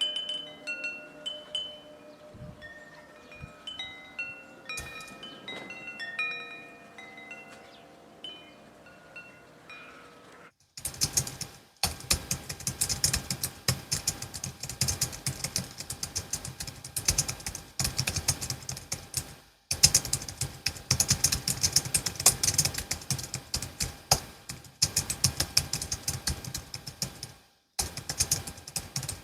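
Wind chime notes ringing one at a time for about the first ten seconds. Then rapid typing on a Logitech MX Keys S low-profile keyboard, a dense run of key clicks with a few brief pauses.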